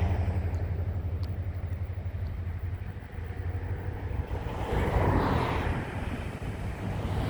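Steady low engine hum that fades away over the first couple of seconds, followed by two swells of rushing noise, one about five seconds in and another near the end.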